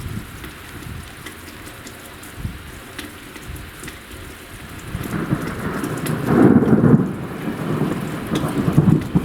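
Steady rain falling. About five seconds in, a roll of thunder builds into a loud, low rumble that keeps rolling.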